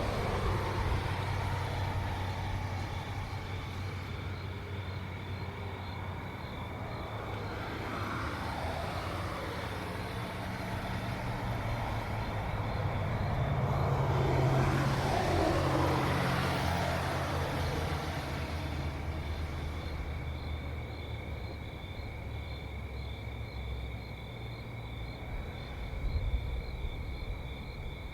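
Cars passing by one after another, each swelling and then dropping in pitch as it goes past, the loudest pass about halfway through. A steady high insect trill runs underneath.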